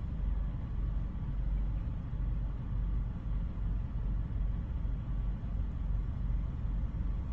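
Steady muffled low rumble of a Ryko Softgloss MAXX 5 soft-touch car wash at work, heard from inside the car going through it.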